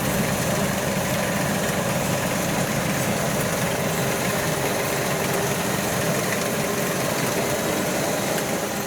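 Farm machinery's diesel engine running steadily, with a constant mechanical drone and rattle.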